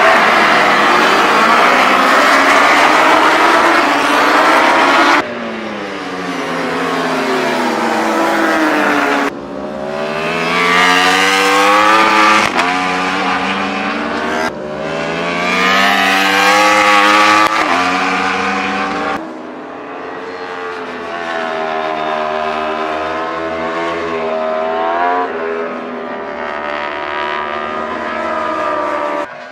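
Racing motorcycle engines at high revs, their pitch rising and falling with throttle and gear changes. Several stretches are joined by abrupt cuts every few seconds.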